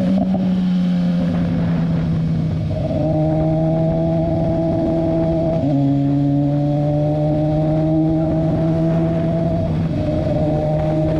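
BMW S1000RR sport bike's inline-four engine running under way at moderate road speed. Its note is steady and jumps in pitch a few times, about three and six seconds in and again near the end.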